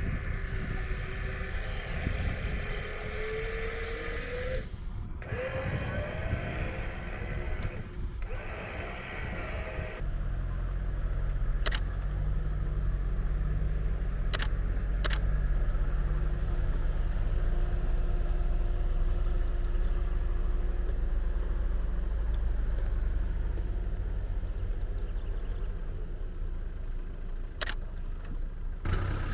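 Off-road 4x4 vehicle engine running under load, its note rising and falling in the first seconds. The sound changes abruptly several times, and from about ten seconds in a louder, deeper steady engine drone takes over, broken by a few sharp clicks.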